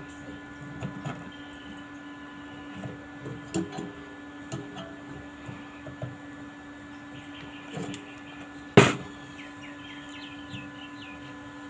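Stainless steel parts being adjusted and handled on the bench: scattered light clicks and knocks over a steady electrical hum, with one sharp loud metal knock about nine seconds in.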